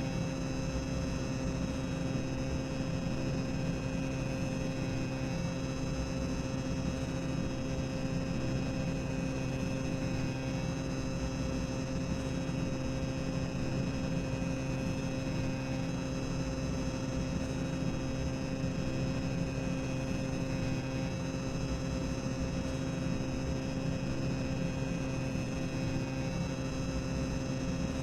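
Boiler-room ambience sound effect: a steady low machinery rumble with a constant hum and no changes.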